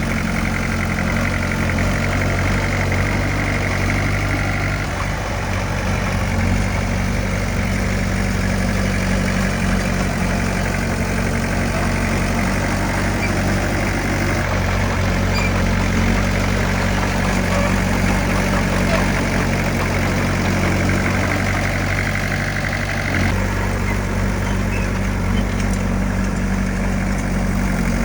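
Heavy earthmoving machine's diesel engine running steadily, its low note shifting slightly a few times.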